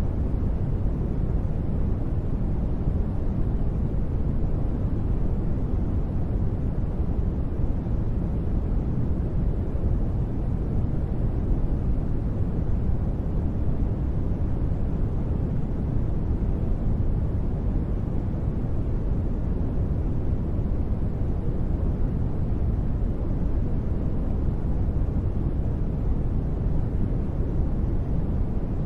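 Continuous steady noise from a sleep-noise track, unchanging, deep and rumbly, with most of its weight in the low end and little hiss on top.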